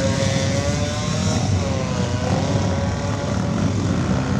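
A motorcycle engine running at fairly steady high revs, its droning note wavering slightly in pitch over a rough low rumble.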